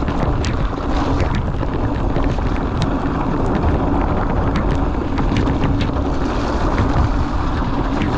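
Wind buffeting the camera microphone as a Cube Stereo 150 Race full-suspension mountain bike rolls along a wet, rough trail, with steady tyre rumble and scattered clicks and rattles from the bike over stones.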